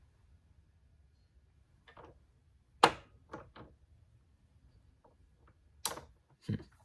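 A few sharp clicks and knocks spaced irregularly, the loudest about three seconds in, two smaller ones just after it and two more near the end.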